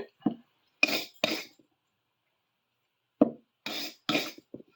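Short scraping and rubbing strokes from a tool being handled on a work surface, in two groups: about three in the first second and a half, then about five more from three seconds in.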